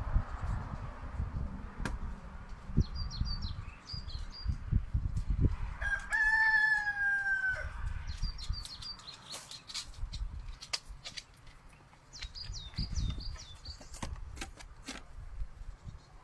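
A rooster crows once, about six seconds in: a long call that falls slightly in pitch. Small birds chirp on and off, over a low rumbling noise and scattered clicks.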